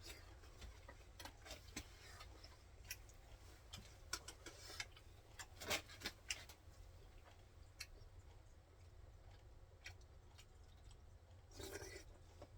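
Faint, scattered clicks and taps of food and utensils being handled, loudest about six seconds in, with a brief rustle near the end, over a low steady hum.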